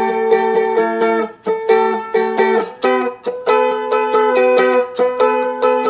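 Seagull Merlin, a dulcimer-style stick instrument, capoed and strummed with a pick in a steady rhythm of about three strums a second. A droning note rings under the chords, starting on a barred A chord with an added note, and the chord changes about halfway through.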